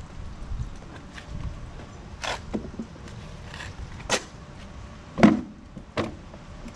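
Hard objects knocking and clunking as they are handled, about four separate knocks over a few seconds, the loudest about five seconds in.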